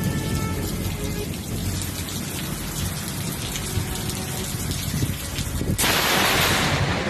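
Heavy rain falling in a thunderstorm, with the low rumble of thunder underneath. About six seconds in, a sudden loud crackling hiss lasts about a second.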